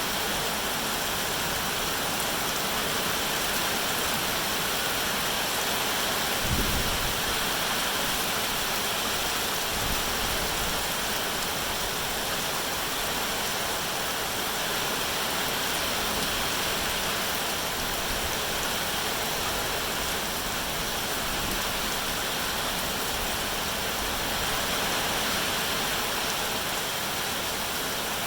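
Steady, even rainfall hissing without a break. A brief low thud sounds about six seconds in, and a softer one near ten seconds.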